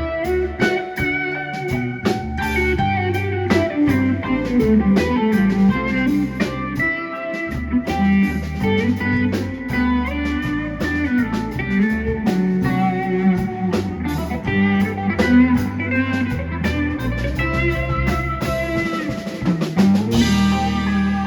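Live blues-rock band playing an instrumental passage with no singing: guitars over bass and drum kit, with a cymbal wash coming in near the end.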